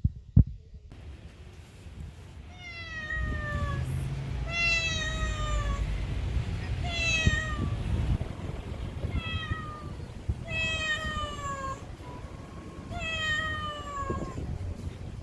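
Stray cat meowing repeatedly, about seven meows roughly two seconds apart, each falling in pitch. A low rumble runs underneath.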